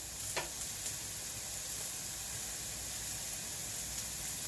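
Steady sizzle of food frying on the stove: chopped onion sautéing in a large aluminium pan and ground meat browning under a glass lid. A short falling sweep sounds about half a second in.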